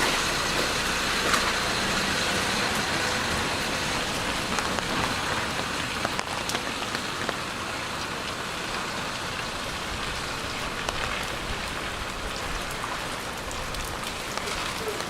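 Steady rain falling on a city street, drops pattering on hard surfaces, with a vehicle's engine hum dying away in the first few seconds.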